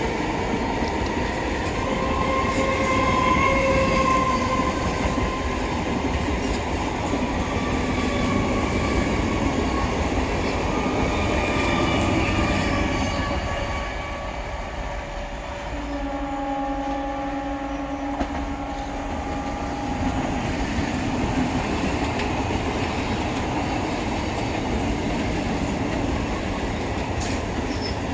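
Indian Railways train passing: steady rumble and wheel noise on the track, with whining tones that drift in pitch. It eases briefly about halfway through, then a few steady tones sound for several seconds.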